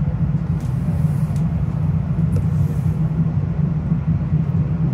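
Steady low rumble of a Metro-North commuter train in motion, heard from inside the car, with a few faint ticks over it.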